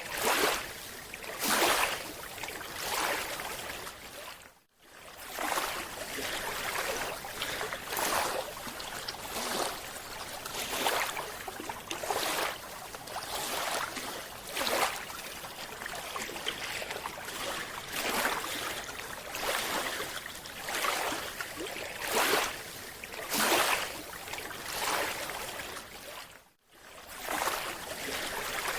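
Underwater rushing water and bubble noise, surging about every second and a half, with two brief dropouts.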